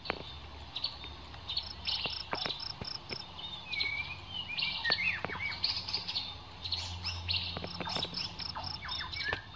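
Small birds chirping and calling, with a run of evenly spaced short high notes, about five a second, heard twice. A faint low hum sits underneath.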